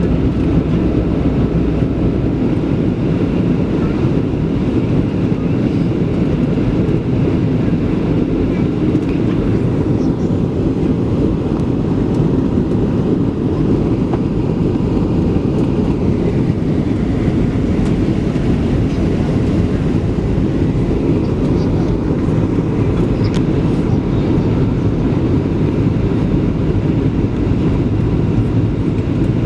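Steady, loud low rumble inside the cabin of a Boeing 737-700 with CFM56-7B engines.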